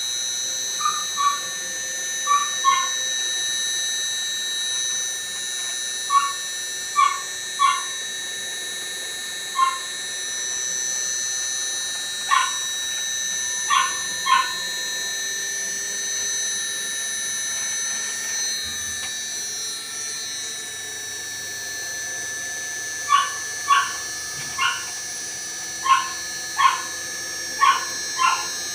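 A dog barking in short yaps, in groups of two or three, with a lull in the middle. Under the barks is the steady hum and high whine of a Hitachi 3-ton inverter air conditioner running with its compressor and fans on.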